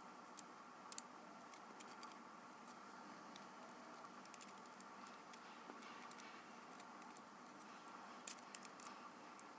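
Faint, scattered small clicks and taps of tools and tiny parts being handled while a Canon PowerShot S110 compact camera is taken apart to repair a lens error. The clicks are sharpest about a second in and come in a quick cluster near the end, over a low steady hum.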